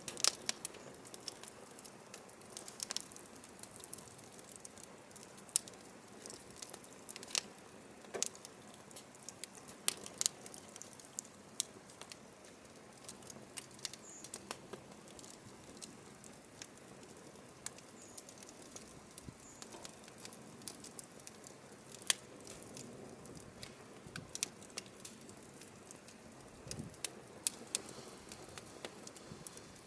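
Burning firewood crackling: irregular sharp pops and snaps over a soft, steady hiss of the fire.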